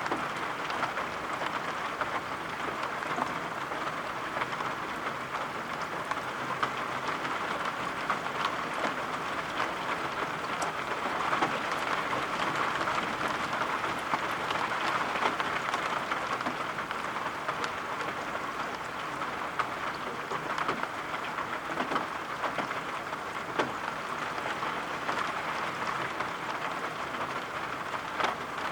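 Steady rain falling, with the close, dense patter of drops striking surfaces.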